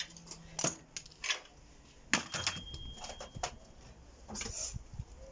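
Scattered clicks and clatter of hard plastic and metal microwave parts being handled and gathered together, with a quick run of knocks in the middle and a brief rustle near the end.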